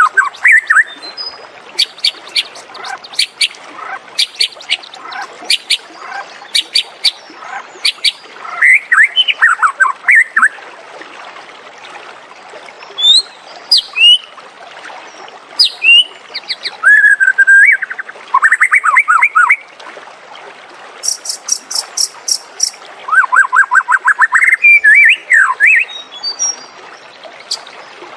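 White-rumped shama singing a varied song of clear whistles, rising and falling glides, sharp clicking notes and rapid trills of repeated notes, in phrases with short pauses between them.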